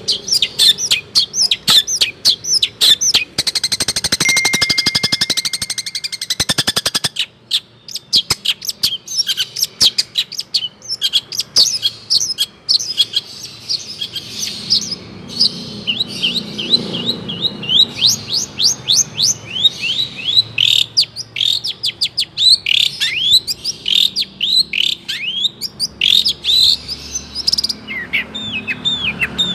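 Long-tailed shrike (cendet) singing a fast, varied song packed with mimicked phrases of other birds: rapid chirps and falling whistles. A fast rattling trill comes in a few seconds in.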